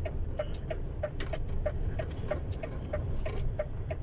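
Truck's hazard-light flasher ticking evenly, about three clicks a second, over the steady low drone of the engine heard inside the cab. Occasional sharper clicks sound among the ticks.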